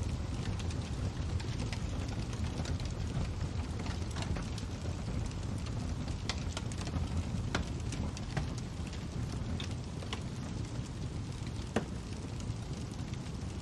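Fire crackling: a steady low rush with irregular sharp pops and snaps, the loudest snap near the end.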